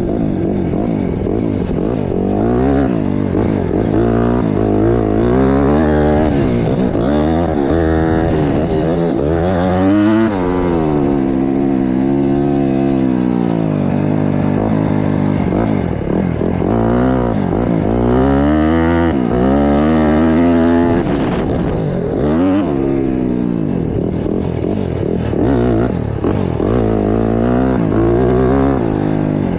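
Honda CRF150R four-stroke single-cylinder motocross bike engine revving hard, its pitch climbing and dropping again and again as the rider works the throttle around the track.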